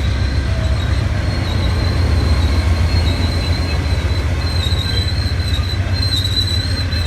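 Amtrak passenger train creeping along the station track to its second stopping spot, its wheels giving a high, wavering squeal over the steady low rumble of the diesel locomotive. The squeal grows stronger about two-thirds of the way in.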